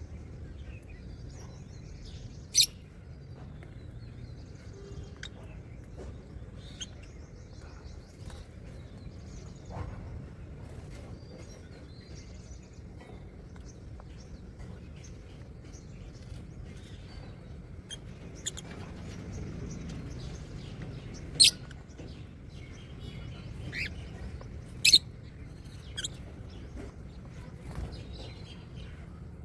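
Pet birds chirping: scattered short, sharp chirps, the loudest about two and a half seconds in and twice more past the twenty-second mark, over a low steady hum.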